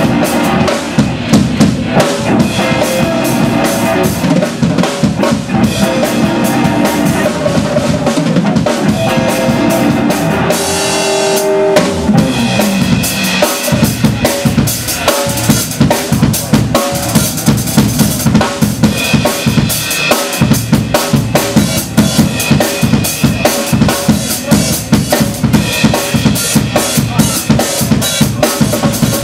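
Live blues band playing, with the drum kit to the fore: bass drum, snare and rimshots. About eleven seconds in the drums drop out briefly under a held note, then come back in with a steady, busy beat.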